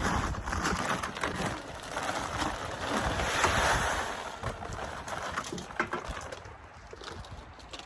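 Wind gusting across the microphone in a snowstorm, a rushing noise that swells about three seconds in and then eases off.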